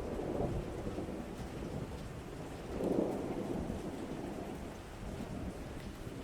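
Rain with low rolling thunder that swells to a peak about three seconds in and then slowly dies away.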